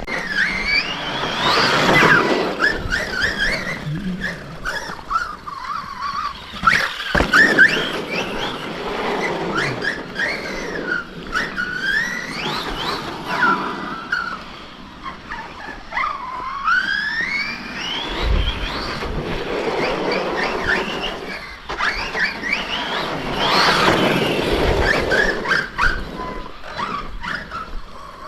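Electric RC truck's brushless motor whining up and down in pitch again and again as it accelerates and brakes, over a rushing noise of tyres on dirt.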